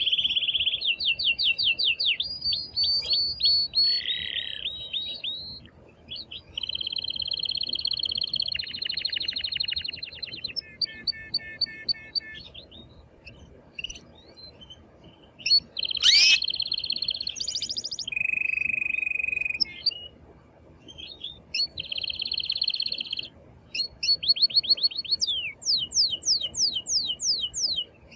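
Male domestic canary singing vigorously in breeding excitement: a long, varied song of rapid high trills and rolled phrases, each repeated several times, broken by brief pauses.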